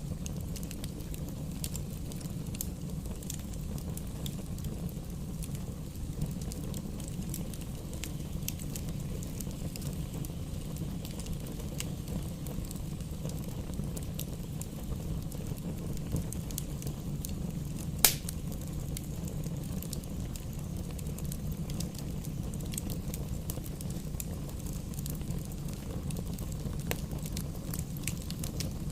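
Wood fire burning in a fireplace: a steady low rush with frequent small crackles, and one sharp loud pop about 18 seconds in.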